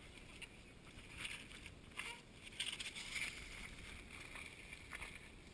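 Mountain bike rolling down a wet, muddy trail: steady tyre and splash noise with several sharp rattles and knocks as the bike goes over bumps.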